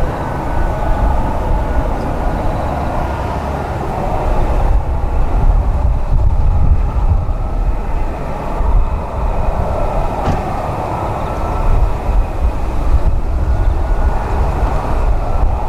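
Steady, loud rumble of a jet aircraft engine, with faint steady whining tones above the rumble.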